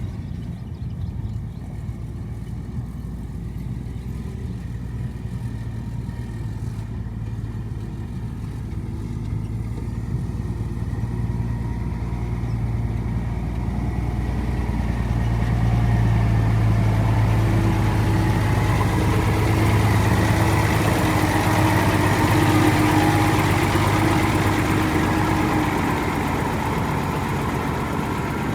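Diesel engine of a Hyundai bulldozer running steadily, growing louder about halfway through and holding there, with a higher whine joining in over the louder part.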